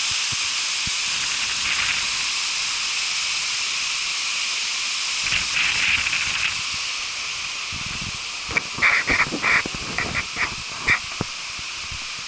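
Tamasudare Falls waterfall rushing steadily. About five seconds in there is a brief louder patch, and between eight and eleven seconds a run of short, sharp sounds is heard over the water.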